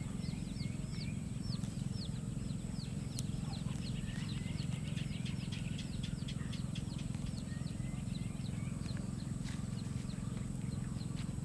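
Small birds chirping busily: many short, falling chirps, several a second, over a steady low hum.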